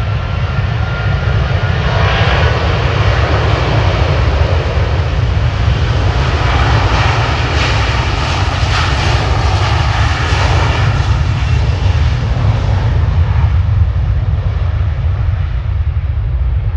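Jet airliner passing close by, its engine roar building to a peak in the middle and then easing off, over a steady deep rumble.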